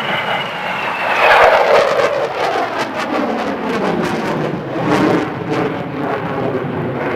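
Aircraft flying past: a loud roar that swells about a second in, with a high whine falling in pitch as it goes by.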